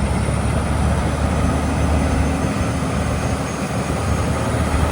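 Heavy diesel engine running steadily under load, with a deep even drone and a broad mechanical hiss, as heavy equipment works to free a truck stuck in mud.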